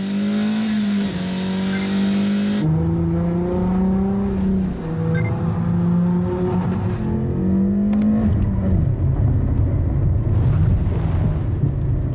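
Audi car engine running at speed, its pitched note gliding up and down, jumping abruptly about two and a half seconds in and again around seven seconds, then giving way near the end to a wavering low hum.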